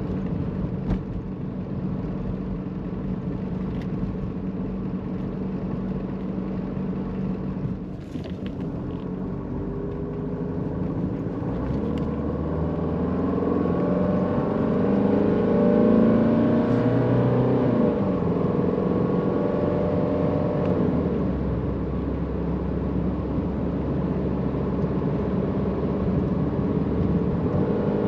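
Mercedes-Benz 190D (W201) diesel engine running while the car drives. It pulls steady, then climbs in pitch for several seconds from about ten seconds in, drops back near eighteen seconds, and runs steady again.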